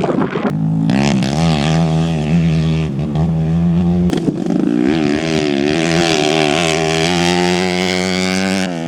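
Off-road motorcycle engine running hard, its pitch holding steady for a few seconds and then rising and falling with the throttle from about four seconds in.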